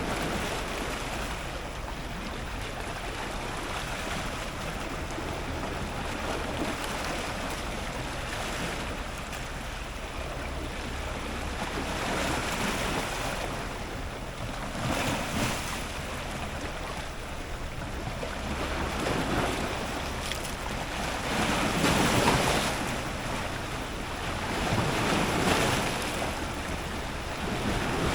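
Ocean surf breaking on rocks: a continuous rush of water that swells louder with each incoming wave, several times, the biggest surge about two-thirds of the way through. A steady low rumble runs underneath.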